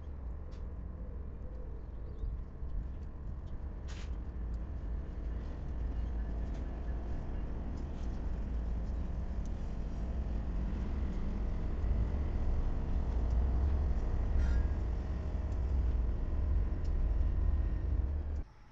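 Diesel locomotives and a freight train moving through a rail yard, a deep steady rumble that grows louder as the train goes by, with a few faint clicks and two brief sharp metallic sounds. It cuts off abruptly near the end.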